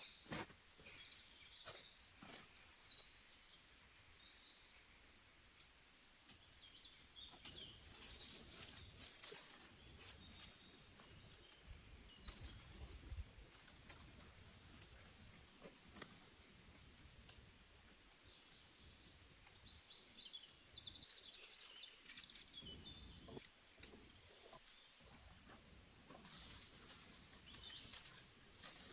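Faint chirps of small birds scattered throughout, with occasional sharp clicks and taps over a quiet outdoor background.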